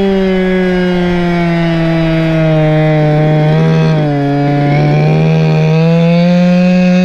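Small two-stroke engine of a Goped stand-up scooter, a Chongyang CY26 from an RC car, running at speed under way. Its pitch drops briefly about four seconds in as the throttle eases off, then rises again as it picks back up.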